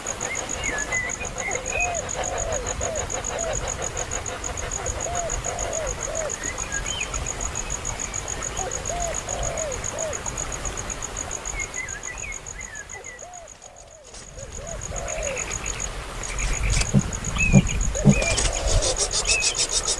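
An insect trilling steadily at a high pitch, with repeated short chirping calls over it. A few low thumps come near the end.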